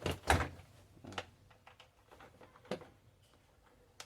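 Light clicks and knocks of handling as a laptop charger's plug is fitted into a robot vacuum's charging socket. There is a cluster at the start, the loudest, then single clicks about a second in, near three seconds and at the end.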